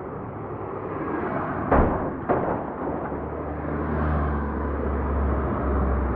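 Two sharp bangs about half a second apart over a steady noisy background, followed by a low steady rumble.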